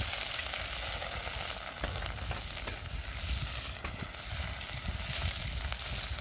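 Food stir-frying in very hot oil in a wok over a wood-burning camp stove: a steady, loud sizzle with a few small clicks.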